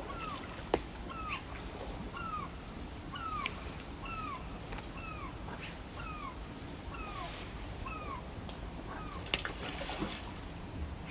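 A bird calling over and over: about ten short, falling, mewing notes a little under a second apart, over the steady rush of a waterfall. Two sharp clicks, one near the start and one near the end.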